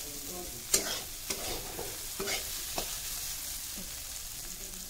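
Chopped okra stir-frying in hot oil in a metal kadhai, a steady sizzle, with a metal spatula clicking and scraping against the pan about four times in the first three seconds.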